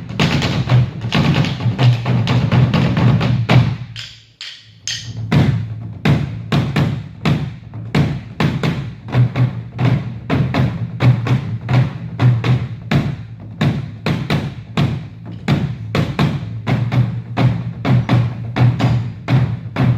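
Percussion ensemble playing a fast struck rhythm. It breaks off almost completely about four seconds in, then comes back in on a steady, even beat.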